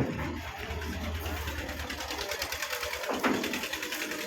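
Tata 3718 truck's diesel engine running, a rapid, even clatter over a steady low hum.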